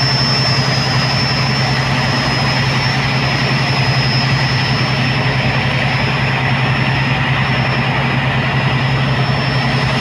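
A tugboat's heavy diesel engine running steadily: a deep, even drone with a thin high whine over it.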